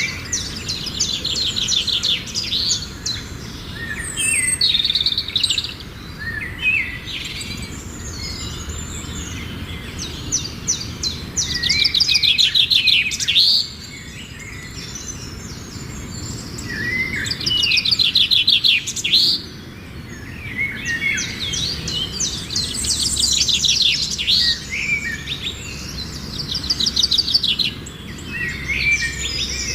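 Songbirds singing outdoors, with rapid trilled phrases recurring every few seconds over a low steady rumble.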